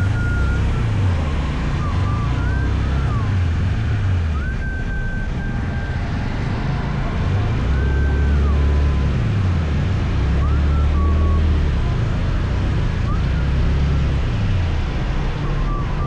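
Motor scooter engine running while riding, its pitch rising and falling repeatedly with the throttle, with a higher whine that rises and falls along with it. A steady hiss of road and wind noise runs underneath.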